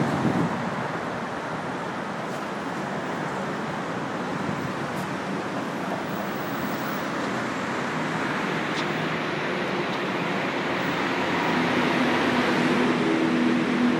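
A BMW E36 with a swapped single-turbo 1JZ inline-six on the move, a steady rush of engine and road noise; about three-quarters of the way through, a steady engine drone comes up and the sound grows slightly louder.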